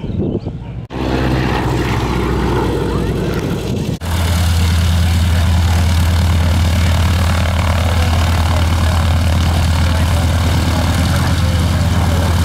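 Propeller aircraft engine running. The sound changes abruptly about a second in and again about four seconds in, then holds as a steady, loud low drone.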